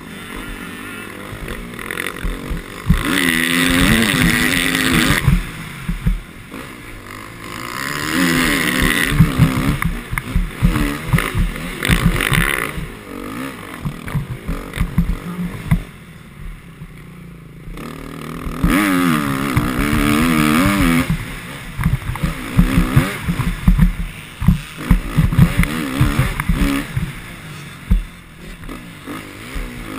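Motocross bike engine revving hard and easing off in repeated surges, pitch rising and falling as the rider works the throttle around the track, with many short thumps throughout.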